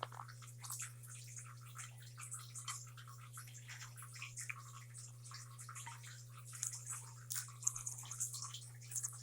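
A Quaker parrot and a pineapple conure picking at snack food with their beaks: soft, irregular clicks and small crunches, over a steady low hum.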